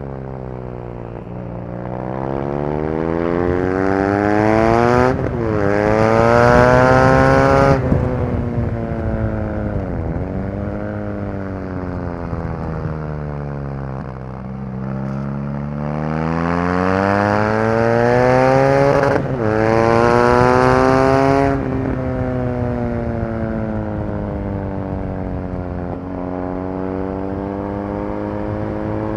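BMW R NineT Racer's air/oil-cooled boxer twin at full racing pace. The engine pulls hard twice with rising revs, each time broken by a quick upshift. Each run ends with the throttle snapped shut and the revs falling away under engine braking.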